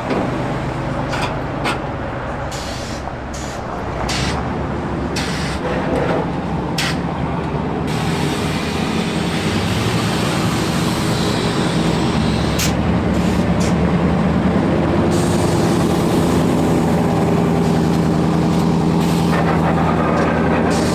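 A vehicle engine running steadily, growing louder over the first several seconds and then holding, with short sharp clicks or hisses scattered through the first half.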